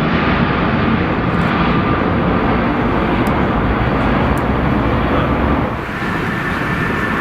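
Jet airliner's engines roaring loud and close, with a faint whine over the noise; the level dips briefly about six seconds in, then a higher-pitched whine comes in.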